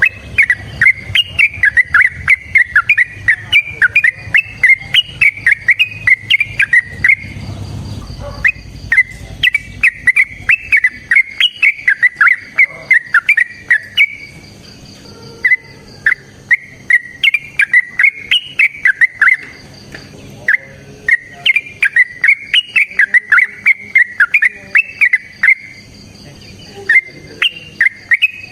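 Yellow-vented bulbul (trucukan) singing long, rapid runs of loud chattering notes, several runs of a few seconds each with short pauses between.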